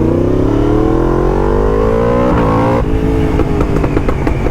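Yamaha MT-10's crossplane inline-four, through an Akrapovič titanium race exhaust, revving up hard with a rising pitch. About three seconds in, the throttle shuts and the exhaust pops and crackles on the overrun, on a bike that has not been tuned for the exhaust.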